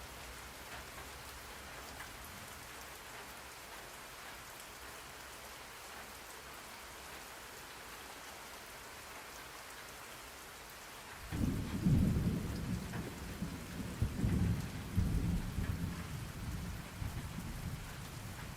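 Steady rain falling, an even hiss. About eleven seconds in, thunder breaks out in a sudden low rumble that rolls on in waves, loudest in its first few seconds.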